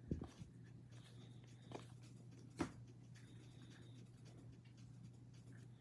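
Faint handling of trading cards: a few soft taps and rustles, the loudest about two and a half seconds in, over a low steady hum.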